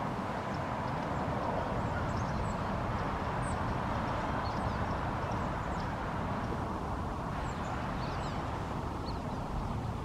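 Small birds chirping: many short, high chirps scattered throughout over a steady outdoor background, with low wind rumble on the microphone.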